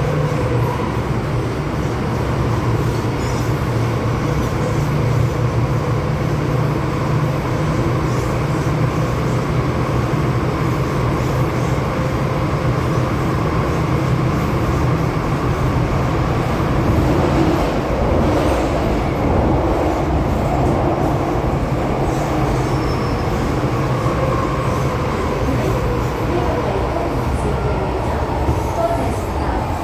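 MTR M-Train electric multiple unit running on the Kwun Tong Line, heard from inside the carriage: a steady rumble of wheels on rails with a faint motor hum.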